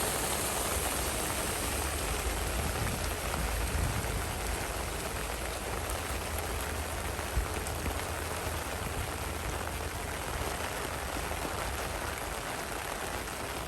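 Heavy rain falling hard and steadily in a summer storm.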